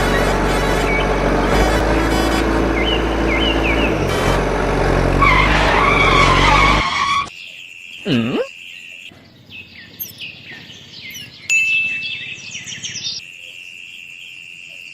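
A motor engine runs steadily and loud, then cuts off abruptly about seven seconds in, leaving birds chirping.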